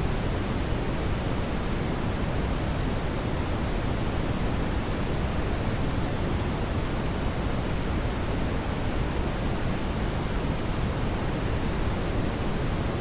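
Steady brown noise: an even, deep rushing hiss, strongest in the low end, with no change or events.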